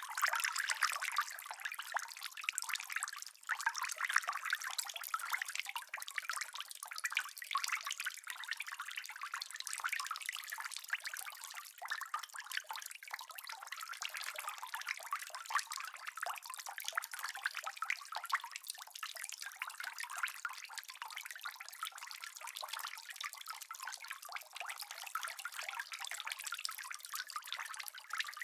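Steady rain falling: a continuous hiss of many small drop impacts, with nothing deep in it.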